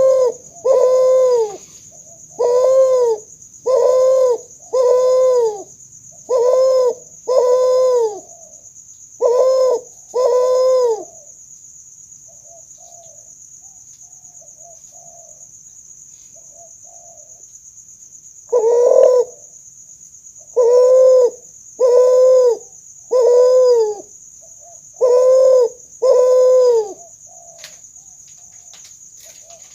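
Kuter, a spotted dove × Barbary dove hybrid, cooing: a string of loud short coos, each rising then falling in pitch, often in pairs. There are two runs of them, with a pause of about seven seconds between holding only faint soft notes.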